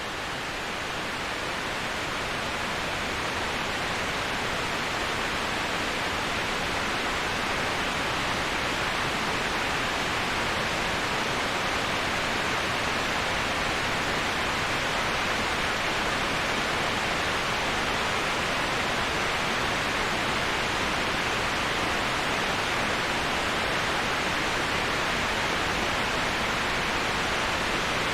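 Waterfall white noise: an even, steady rush of falling water with no distinct splashes or tones. It swells a little over the first few seconds, then holds steady.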